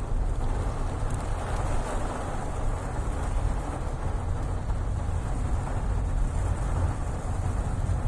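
Fairly heavy rain falling steadily, with a low rumble underneath.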